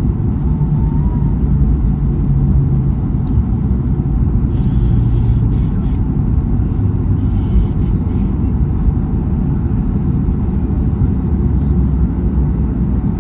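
Steady low rumble of engine and airflow noise inside the cabin of a Boeing 737-800 on approach. Two short spells of hiss come through about four and a half and seven seconds in.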